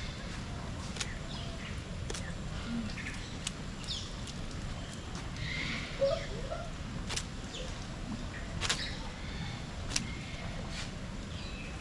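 Scattered short bird chirps and calls, with sharp clicks here and there over a steady low background rumble.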